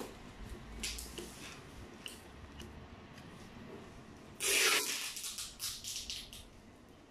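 Handling noise: faint rustles and light clicks, with a brief louder rustle about four and a half seconds in.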